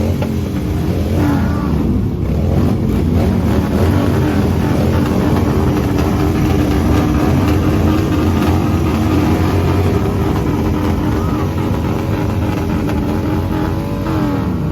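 Motorcycle engine revved again and again, its pitch rising and falling over a steady low rumble.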